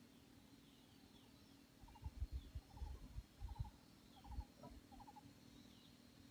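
Faint calls of small forest birds: short quick chirps in groups of three or four, with thin falling notes higher up. A few low dull thumps about two to four and a half seconds in are the loudest thing heard.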